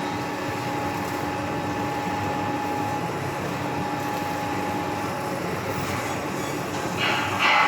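Hydraulic timber crane running: a steady mechanical hum with a constant whine. Near the end it gets louder, with a hissing rise as the hydraulics take load.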